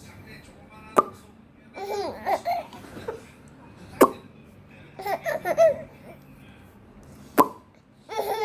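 A baby laughing in three short bursts of giggles. Each burst comes about a second after a sharp smack or clap.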